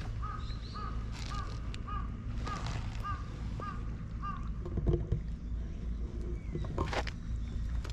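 A bird calling in a quick series of about ten short, repeated chirps, two or three a second, over wind on the microphone; a few brief knocks or rustles follow in the second half, the loudest about five seconds in.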